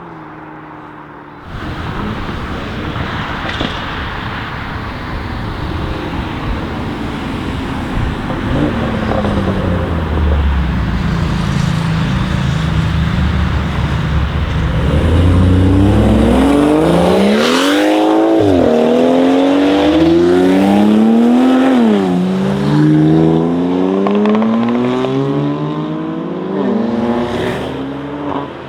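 Tuned BMW 540i Stage 2 engine under hard acceleration. A noisy low rumble gives way, about halfway through, to a rising engine note that drops back at each upshift, about three times, climbing again after each shift.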